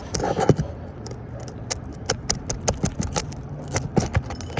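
A metal roof snake, a shingle-removal bar, clinking and scraping against roofing nails and shingles as nails are pried out, in a string of irregular sharp clicks.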